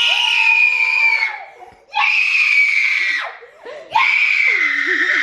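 Three long, loud screams of excitement about two seconds apart, each sliding slightly down in pitch, from a person celebrating a win.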